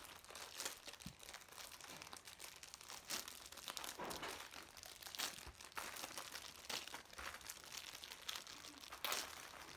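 Plastic packaging crinkling and tearing in irregular rustles as squishy toys are unwrapped.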